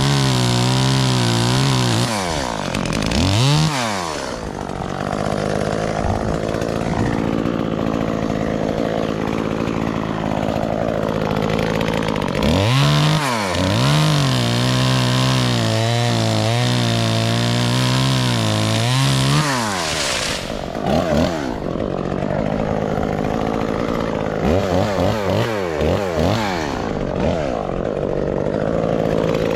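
Chainsaw engine running, alternating between a steady idle and revs that rise and fall, with a few quick blips of the throttle near the end.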